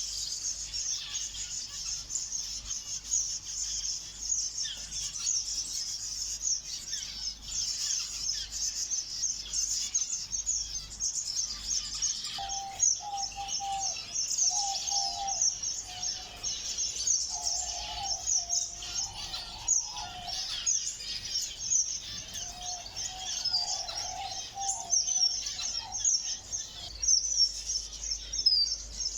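A flock of small ornamental aviary birds chirping continuously in a dense, high-pitched chatter. From about twelve seconds in, a lower call joins on and off in short phrases.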